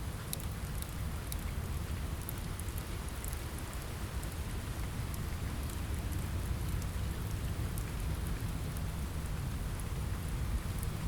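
Steady rain in an ambience mix, an even hiss over a strong low rumble, with many small sharp ticks scattered through it.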